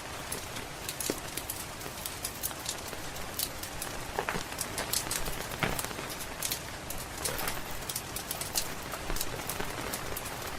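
Steady rain hiss with a wood fire crackling over it: frequent sharp high snaps, and a couple of louder pops about four and six seconds in.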